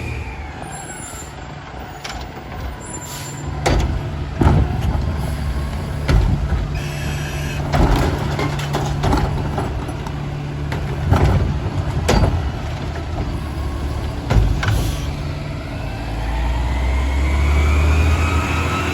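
Diesel garbage truck with a Curotto-Can automated arm collecting recycling: a run of knocks and clatters over the engine's hum as a cart is handled and tipped. Near the end the engine revs up, its pitch rising.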